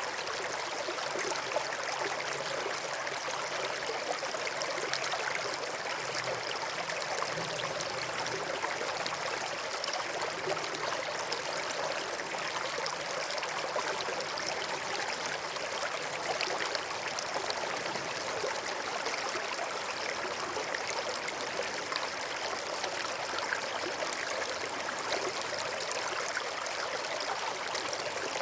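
A brook flowing steadily, its water trickling and babbling without pause.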